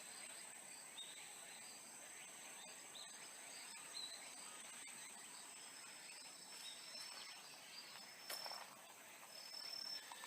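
Faint steady chorus of insects chirping at a high pitch, with a few short, higher chirps scattered through it and one sharp click about eight seconds in.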